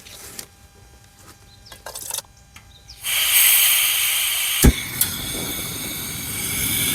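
Portable gas camping stove hissing: a steady hiss starts suddenly about three seconds in, with one sharp click a little after, like a burner being opened and lit.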